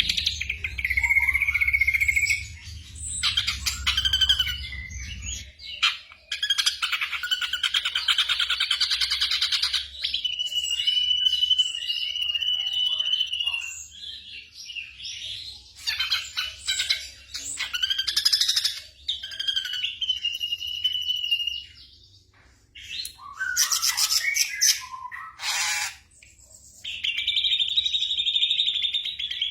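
Black drongo singing a varied song of rapid chattering phrases and held, buzzy trill notes, with a short break about two-thirds of the way through.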